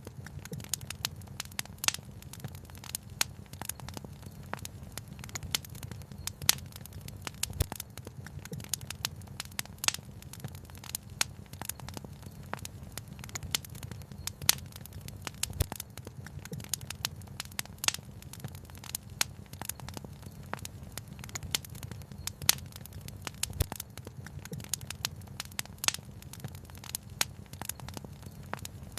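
Wood fire crackling, with frequent irregular snaps and a few sharper pops, over a steady low rumble.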